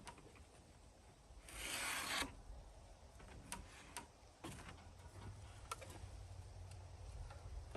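Quiet handling noises as foam insulation board is worked on: one brief rub or scrape about one and a half seconds in, then scattered light clicks and taps.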